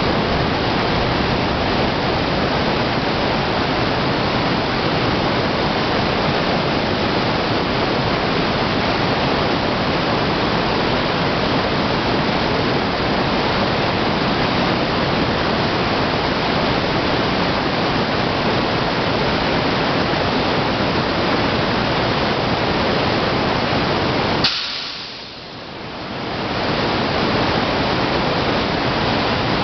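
Heavy rain falling, a steady dense rushing noise. About three-quarters of the way through it cuts off with a click and swells back within a second or two.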